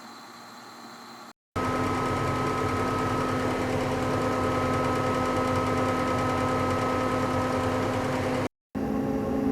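A steady mechanical whir from a machine running at constant speed, with a low rumble under several held tones. It starts cleanly about a second and a half in and stops abruptly near the end, where a different machine sound begins. Before it there is a faint hiss.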